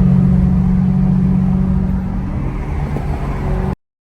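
Car engine running with a steady low drone and rumble, which cuts off suddenly shortly before the end.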